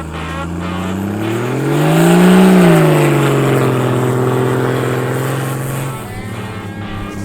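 Toyota Land Cruiser 80's 1HD-FT 4.2-litre six-cylinder turbo diesel revved once. The pitch climbs to a peak about two and a half seconds in, falls back and holds steady, then drops off near the end.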